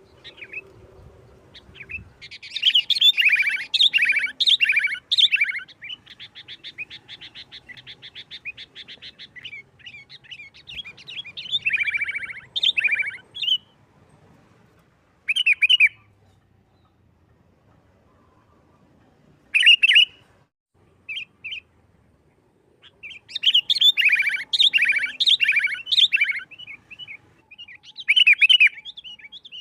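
Sooty-headed bulbul singing in the fast, aggressive 'nggaruda' fighting style: bursts of rapid, harsh chattering notes, one long quick run of repeated notes, and short pauses between bursts.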